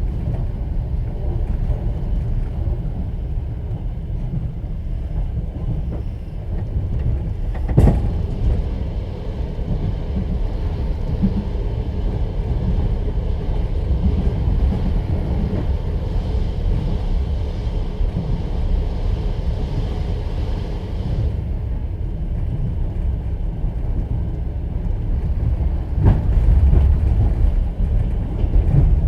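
Steady low rumble of a passenger train's wheels running on the track, heard from inside a platzkart sleeper carriage. One sharp knock comes about 8 seconds in and another near the end, with the rumble briefly louder after it.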